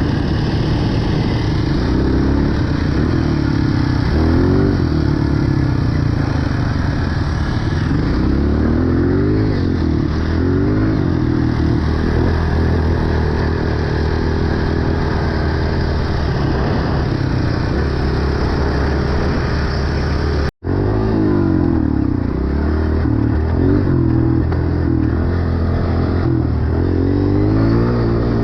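Dirt bike engine revving up and down repeatedly while riding, the pitch rising and falling with the throttle. The sound cuts out completely for an instant about two-thirds of the way through, then carries on.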